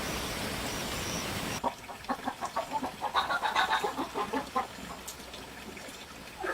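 A steady hiss that cuts off abruptly, then chickens clucking in a quick run of short calls, with one more call near the end.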